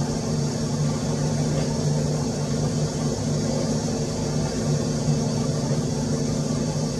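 Steady mechanical hum: a constant low drone over an even noise, unchanging throughout.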